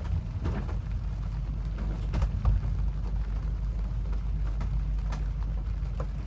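Rain during a storm aboard a sailboat: scattered sharp drops tapping over a loud, steady low rumble.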